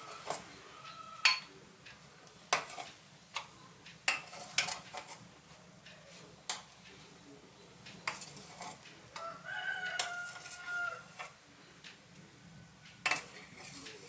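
Kitchenware clinking and knocking: about a dozen sharp, irregular strikes of utensils against dishes or pots. A rooster crows once in the middle, for about a second and a half.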